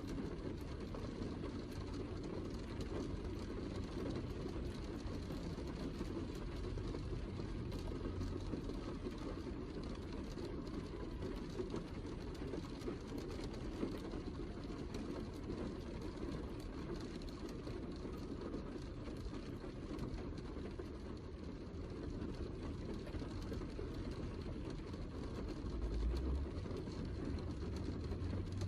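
Steady heavy rain, a dense low rumble with faint fine drop ticks over it. There is a deeper swell near the end.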